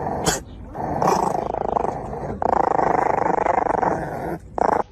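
A dog growling in two long stretches, then a short sharp sound near the end.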